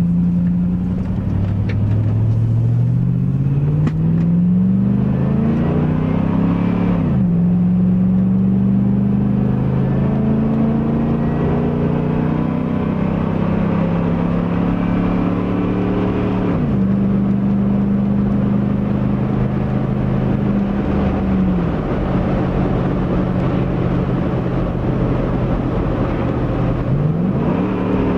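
A 2001 Chevy Tahoe's 5.3-litre Vortec V8 through a Flowmaster Super 44 muffler and 3-inch cat-back exhaust, driving. The engine note rises for several seconds and drops sharply at a gear change, then holds steady with two more sudden drops, and climbs again near the end.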